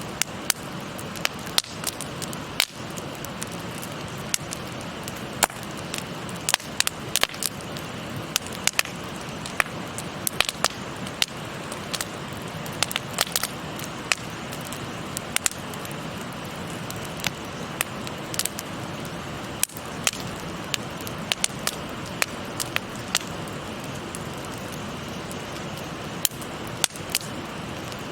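Wood campfire crackling, with frequent sharp irregular pops, over the steady rush of a shallow river's murmur.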